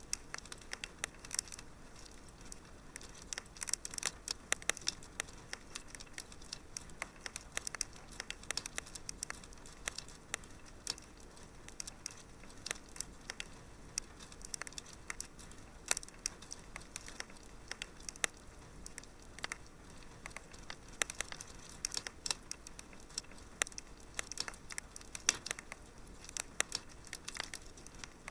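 Wood fire crackling steadily in a fireplace: dense, irregular snaps and pops over a soft hiss.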